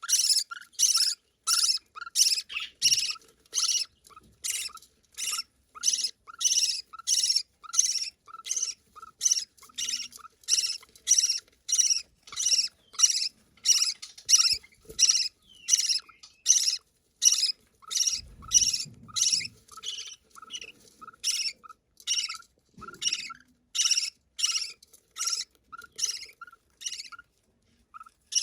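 Budgerigar chick giving short, high begging calls about twice a second, the sound of a nestling waiting to be fed by its mother.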